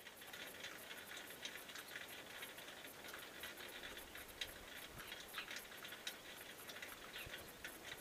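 Small birds nesting in a bathroom fan vent: faint, irregular high ticks and short chirps, several a second.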